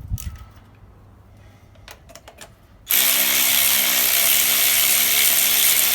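A few light clicks and knocks, then about three seconds in a power tool starts abruptly and runs steadily at speed, spinning loosened rusty exhaust manifold nuts off their studs.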